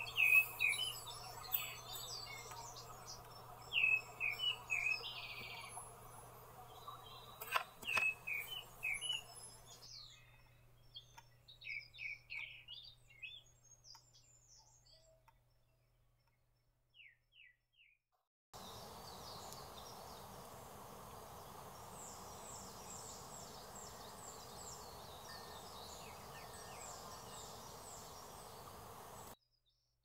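Wild songbirds chirping and trilling in woodland, several calls overlapping, over a steady hiss. The background changes abruptly about ten seconds and eighteen seconds in, and there is one sharp click about eight seconds in.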